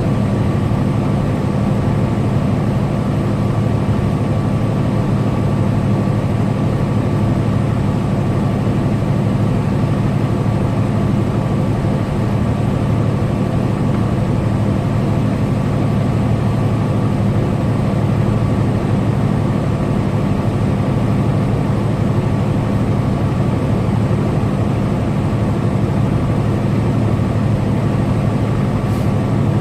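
Tractor-trailer's diesel engine running steadily at highway cruising speed, a constant low drone mixed with road and tyre noise.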